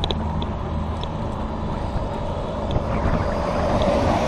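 Road traffic: a vehicle engine hums low and steady, then a rushing noise swells over the last second or so, as of a vehicle going by.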